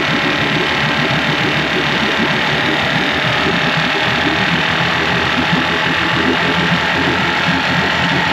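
Outboard motor running steadily and loud, with no change in pitch.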